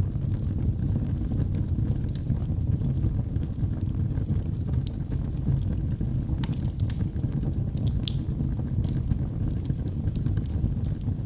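Wood fire burning in a fireplace: a steady low rumble with scattered sharp crackles and pops, coming more thickly around the middle.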